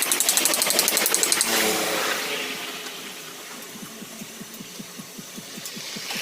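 A small engine or motor running with a fast, even pulse. About two seconds in it drops in level and goes on as a slower, softer pulse.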